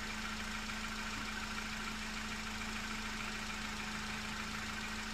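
Car engine idling steadily in the open engine bay, with a steady hum over the running noise.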